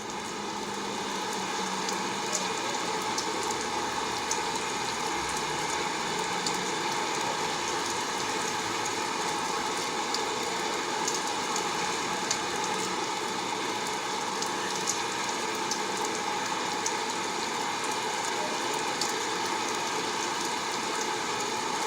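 Steady rain falling, an even hiss with faint ticks of individual drops, fading in over the first couple of seconds.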